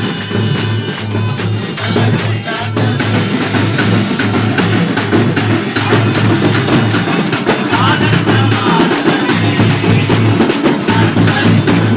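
Drums and a jingling tambourine playing a fast, steady beat for Christmas carolling.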